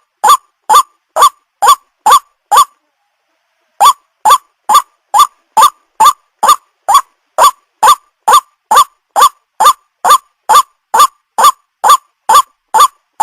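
White-breasted waterhen (burung ruak-ruak) calling: one short, sharp note repeated about twice a second in an even train, breaking off for about a second near three seconds in before resuming.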